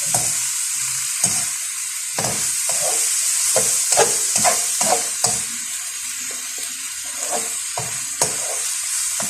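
Fava beans frying in a pan with a steady sizzle, while a utensil scrapes and clicks against the pan as they are stirred, most busily in the middle.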